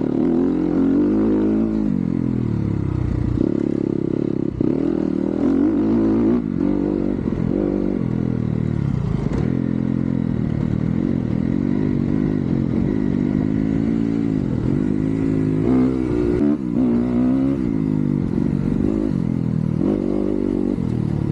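Motocross dirt bike engine revving hard and falling back again and again as it is ridden through the gears, with some clatter from the bike.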